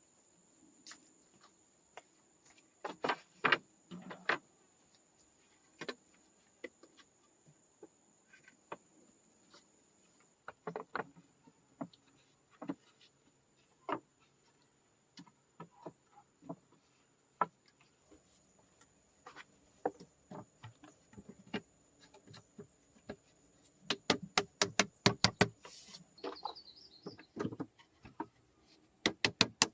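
Irregular knocks and taps, some sharp and loud, with a fast run of rapid taps about twenty-four seconds in, over a faint steady high-pitched tone.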